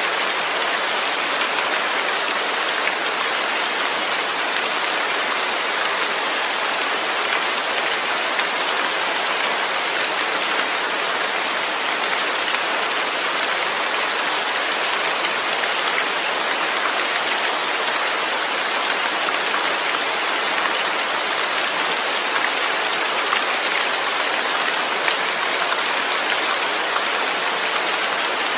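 Steady rain falling on surfaces, an even, unbroken patter with no thunder or other events.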